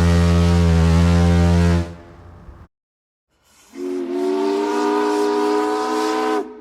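Two vehicle horn blasts: a very deep, steady horn that stops about two seconds in, then after a short pause a higher horn held for about three seconds, its pitch rising slightly.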